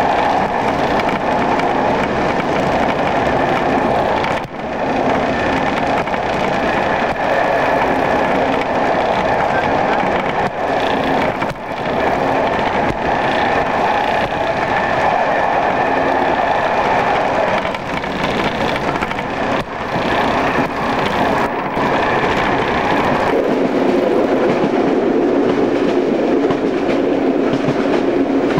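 Class 115 diesel multiple unit running along the line, heard at an open window: steady wheel and running noise with the open window rattling. About 23 seconds in, the noise takes on a lower tone.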